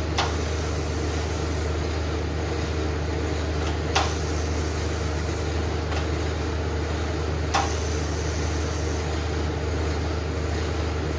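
Welder laying short beads of weld onto a broken, drilled-out bolt so a nut or rod can be attached to pull it out. There are three bursts of arc hiss, each about a second and a half long and each starting with a sharp click, over a steady low hum.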